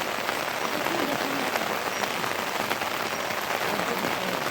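Steady rain falling, a dense hiss with many individual drops pattering on surfaces.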